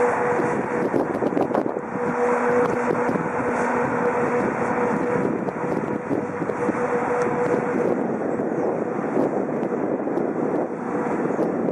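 Lokomotion Class 139 electric locomotive hauling a freight train of open wagons close by: a steady humming tone from the locomotive over the rumble of wheels on the rails, with scattered sharp clicks.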